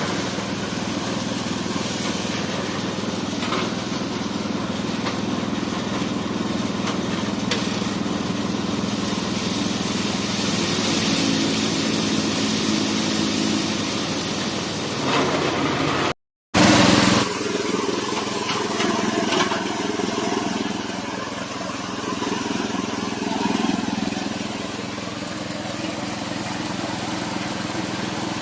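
Small petrol engine running steadily as it drives a mini paddy thresher. The sound drops out completely for a moment just past halfway, then carries on.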